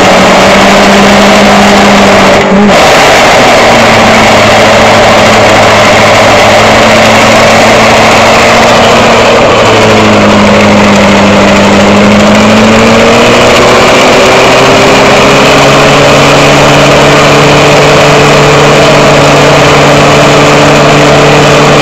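VW Golf Mk2 engine revving hard and held high while its front tyres spin in a burnout, very loud. About halfway through the revs sag, then climb back and hold steady at a higher pitch.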